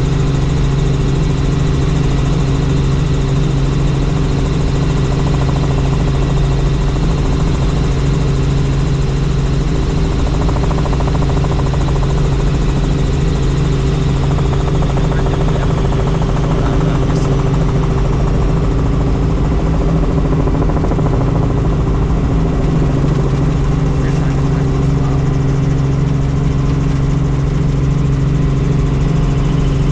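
Helicopter running steadily: an even, unbroken engine and rotor drone with a strong low hum.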